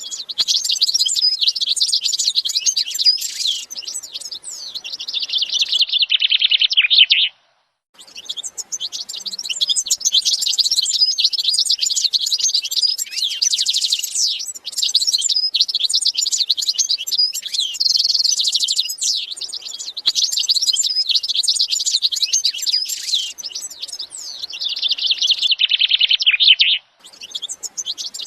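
Many small cage birds chirping and warbling in a dense, overlapping chorus of quick high notes and trills. The sound cuts out briefly about seven seconds in and again near the end, then resumes.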